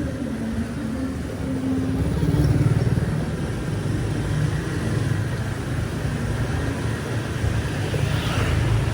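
Street traffic dominated by motorbike and car engines passing close by, with one engine rising and falling in pitch in the first few seconds over a steady low rumble, and a brief hiss near the end.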